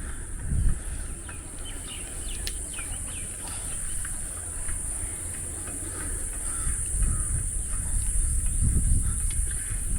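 A steady, high insect drone with scattered short bird chirps over it, and an uneven low rumble that swells near the start and again in the last few seconds.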